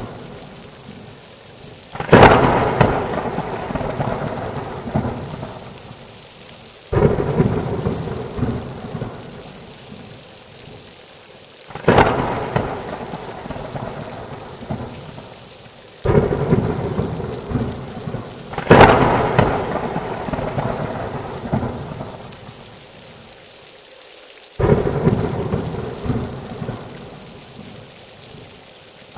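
Thunderstorm: about six peals of thunder, each breaking suddenly and rumbling away over several seconds, over steady heavy rain.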